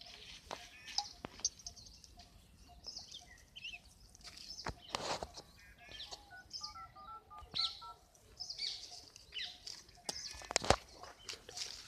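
Mobile phone keypad tones as a number is dialled: a quick run of short beeps about six seconds in. Small birds chirp throughout, with a few sharp knocks, the loudest near the end.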